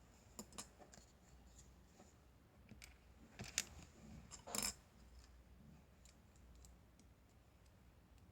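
Faint, scattered clicks and rattles of small plastic building blocks being handled and pressed together, with two louder clacks about three and a half and four and a half seconds in.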